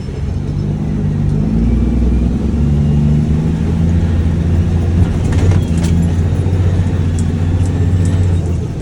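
Diesel dump truck engine running under way, heard from inside the cab, its note rising a little about two seconds in.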